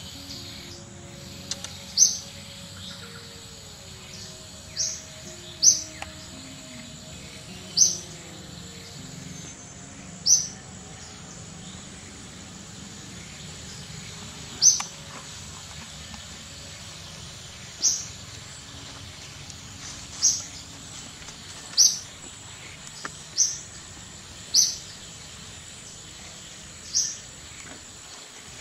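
A bird calling with short, sharp, high chirps, about a dozen of them, one every one to four seconds at an uneven pace.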